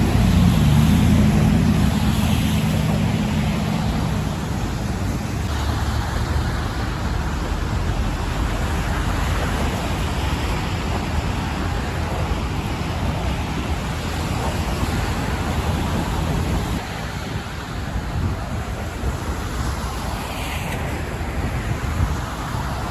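Steady city traffic noise from vehicles on the bridge roadway, a continuous rushing wash; a vehicle's low engine hum stands out for the first few seconds, then fades.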